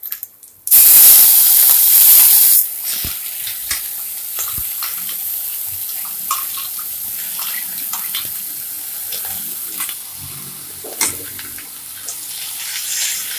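Wet ground mint, coriander and tomato masala paste hitting hot oil and sautéed vegetables in a steel pressure cooker: a loud burst of sizzling starts about a second in and lasts about two seconds, then settles to steadier, quieter sizzling with scattered clicks and scrapes. A wooden spatula stirs the paste through near the end.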